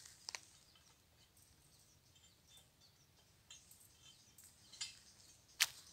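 Faint bird chirps, short and high, scattered through the quiet, with two sharp crackles, about a third of a second in and again near the end.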